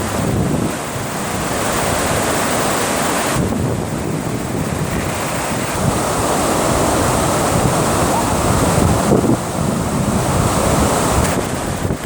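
Water rushing steadily over a dam spillway, with wind buffeting the microphone.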